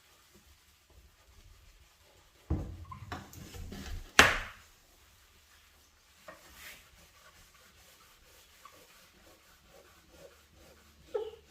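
Scrubbing and rubbing on a dirty oven or stovetop in a burst about two and a half seconds in, ending in a sharp knock, then only faint rubbing. A few short squeaky sounds come near the end.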